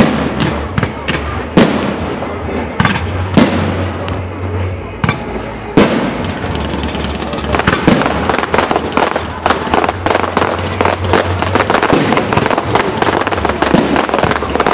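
Fireworks going off: single loud bangs every second or two at first, turning into a dense, rapid crackling barrage from about halfway through.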